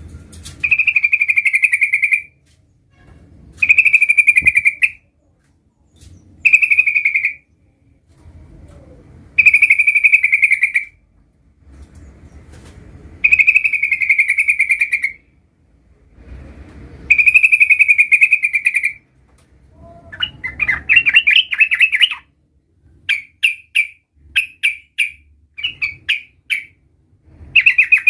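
Sooty-headed bulbul (trucukan) singing loudly in repeated trilled phrases of about two seconds each, one every three to four seconds. From about twenty seconds in, it breaks into a faster run of short chirps.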